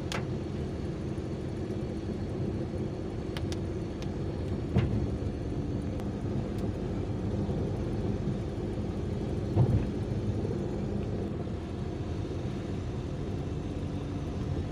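A moving vehicle's engine and road noise, a steady low rumble, with two short knocks about five and ten seconds in.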